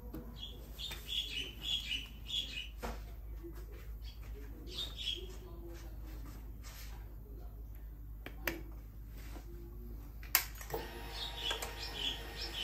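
Small birds chirping faintly, broken by a few sharp clicks. Near the end a steady hum starts.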